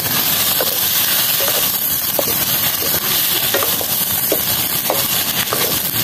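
Food frying and sizzling in a hot pan, with small scattered pops.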